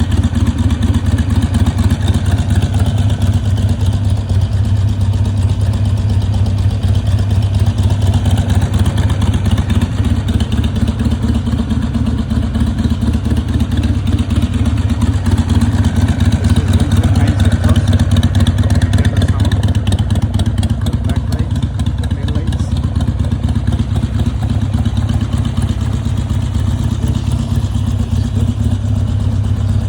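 Harley-Davidson Iron 883's air-cooled V-twin, breathing through a loud aftermarket exhaust, idling steadily and loud.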